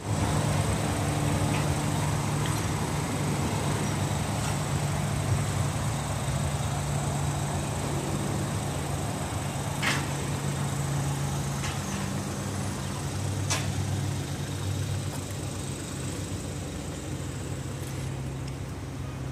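2014 Ford Escape running at idle: a steady low hum, with a few short clicks, one about ten seconds in and another a few seconds later.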